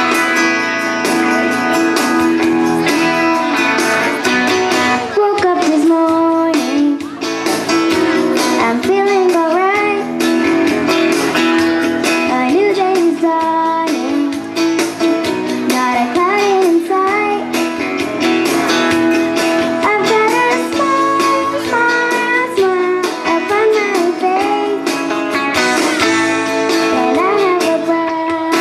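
Children's chorus singing a song with strummed guitar accompaniment; the guitar chords carry the opening seconds and the voices come in strongly from about six seconds in.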